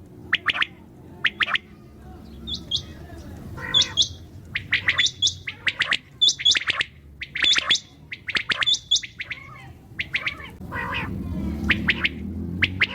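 Common quail calling: short sharp chirps repeated in quick clusters of two or three, some ending in a higher hooked note. A low background rumble grows louder near the end.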